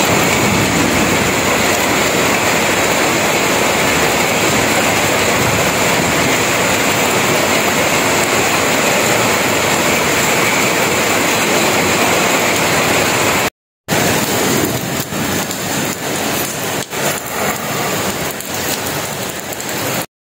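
Heavy rain pouring steadily, a dense even hiss. After a brief break about two-thirds through, the rain sound is less even, with scattered spatters.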